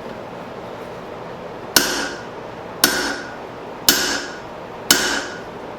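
Four hand-hammer blows, about one a second and starting just under two seconds in, striking a steel punch being driven through a hot hammer head to punch its eye; each blow rings briefly.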